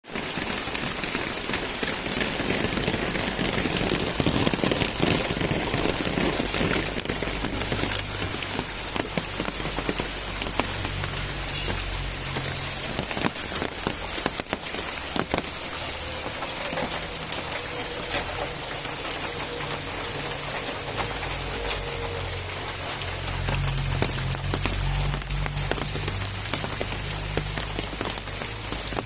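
Heavy rain falling steadily, a dense hiss of many small drop impacts. From about ten seconds in, a low, uneven rumble sits underneath.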